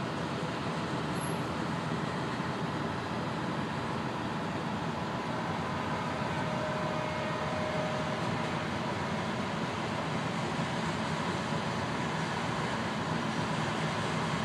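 Steady rumble of a train approaching a level crossing, heard from inside a car stopped at the gates, growing a little louder toward the end.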